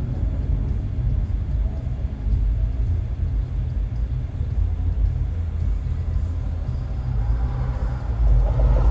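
A car driving with its windows open: a steady low rumble of wind and tyre noise, which swells louder near the end.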